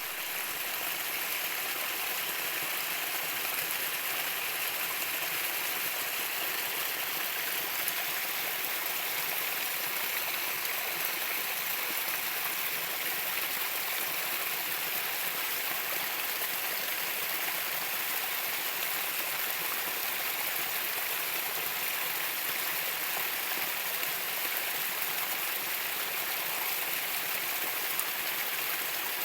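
Running water of a stream, a steady, even rushing with no break or change.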